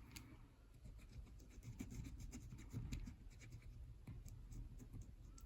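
Marker pen scratching and rubbing against a surface in short, irregular strokes, faint over a low steady rumble.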